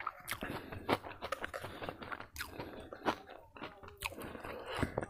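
A person chewing a mouthful of food, a run of short irregular clicks and crunches from the mouth.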